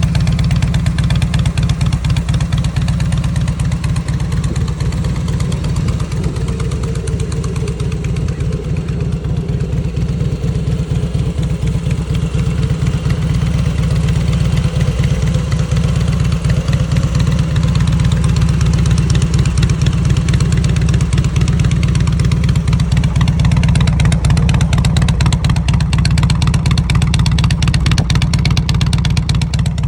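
Harley-Davidson Heritage Softail V-twin running steadily through fishtail exhaust pipes, mostly at idle, growing a little louder in the second half.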